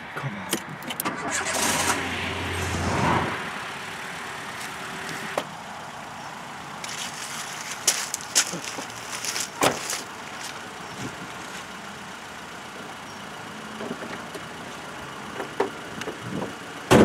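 A car engine being started, loudest for about the first three seconds, then a steady lower noise broken by several sharp clunks as the car door and bonnet are handled.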